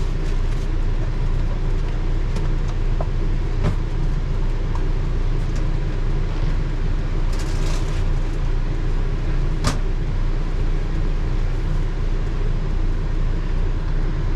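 Portable generator running with a steady low drone, a few light clicks and knocks over it.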